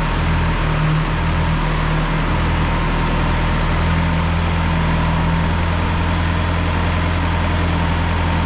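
1974 John Deere 2030 tractor engine running steadily, its note a little uneven for the first couple of seconds and then holding constant.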